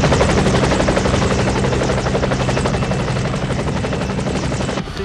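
Helicopter running loudly, its rotor beating rapidly over a steady engine drone, dropping away abruptly near the end.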